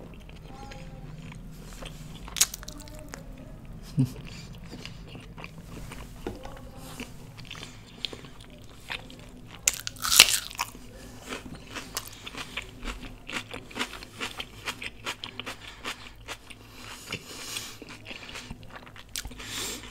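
Close-miked eating: chewing a piece of butter naan dipped in curry, with a few sharp bite clicks. About ten seconds in comes a loud crunching bite, followed by crunchy chewing.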